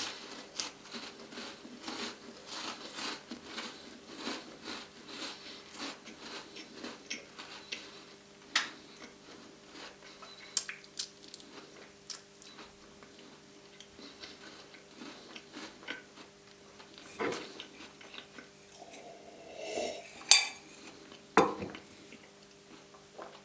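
Close-up eating sounds: a white chocolate Tim Tam biscuit being bitten and chewed, with a dense run of crisp crunching clicks for the first several seconds that thins out into quieter chewing. A few louder knocks come near the end.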